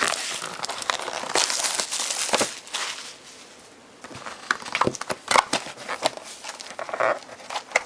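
Trading-card packaging crinkling and tearing as it is opened by hand: a dense stretch of crinkling, a short lull about three seconds in, then scattered crackles and clicks.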